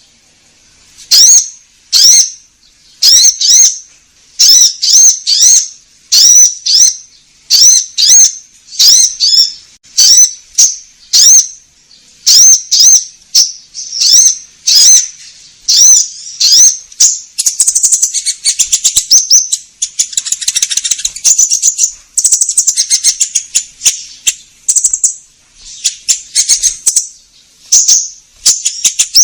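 Konin songbird singing loudly, as a lure recording meant to set other birds singing: sharp high sweeping chirps repeated about once or twice a second, turning into denser, continuous twittering chatter about halfway through.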